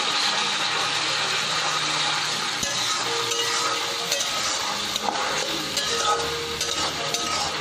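Ginger, garlic and green chilli paste sizzling steadily in hot oil, with a few short scrapes and taps of the spatula against the pan as it is stirred and fried down.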